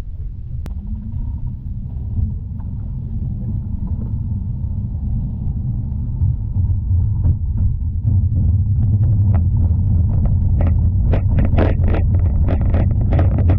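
Tram running on its rails, heard from inside the car: a steady low rumble that grows louder as it picks up speed, with a quick run of clacks near the end as the wheels go over rail joints or points.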